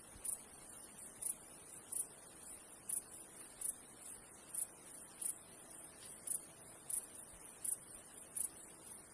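An insect chirping, a high-pitched pulse repeating evenly about three times a second, over a faint steady hiss of running water.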